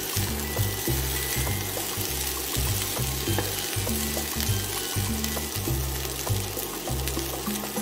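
Shrimp fried rice sizzling in a frying pan while a wooden spatula stirs it, with small scraping ticks, under background music with a steady bass line.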